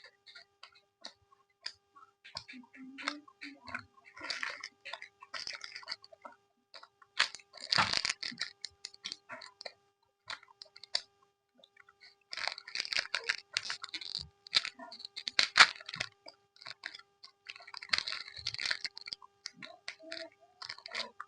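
Close-miked chewing and crunching of Yupi gummy candy, coming in several bursts of clicky mouth sounds with short pauses between them.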